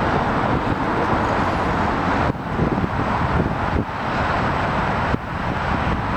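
Loud, steady roar of jet airliner engines mixed with wind on the microphone. The sound changes abruptly three times, about every one and a half seconds.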